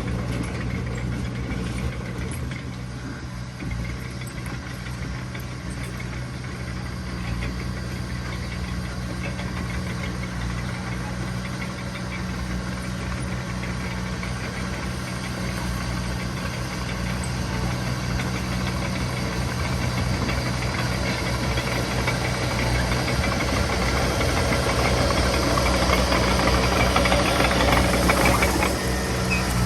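Diesel engine of heavy earthmoving machinery running steadily with a low drone, growing louder and harsher over the last several seconds as it works harder or comes closer.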